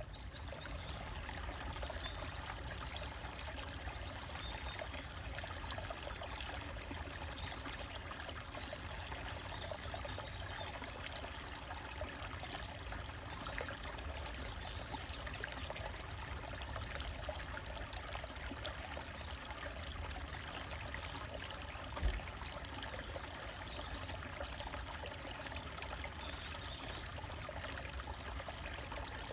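A small stream trickling and splashing steadily over rocks, with faint bird chirps now and then. A single low thump comes about three-quarters of the way through.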